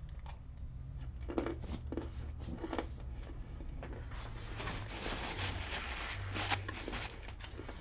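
Quiet chewing and crunching of a mouthful of trail mix with peanuts and dried fruit, a run of small crackles that gets busier about halfway through.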